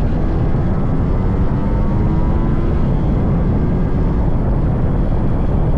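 Yamaha RX100's 98cc air-cooled two-stroke single-cylinder engine running while the bike is ridden, its pitch rising slightly over the first few seconds, heard through heavy wind noise on the microphone.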